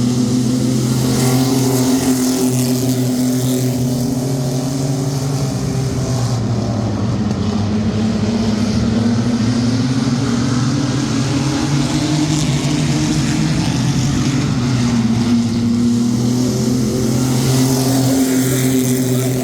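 Engines of a field of sport trucks racing around a short oval: a steady, loud engine drone that rises and falls a little in pitch as the trucks work the straights and turns.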